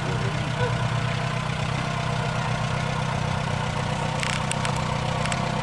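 Small tractor's engine running steadily at an even speed, with a brief hiss about four seconds in.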